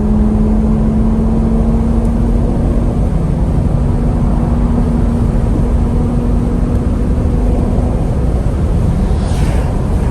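2006 Lamborghini Gallardo's V10 engine running at a steady cruise under heavy road rumble, holding one steady pitch. A brief falling whoosh comes near the end.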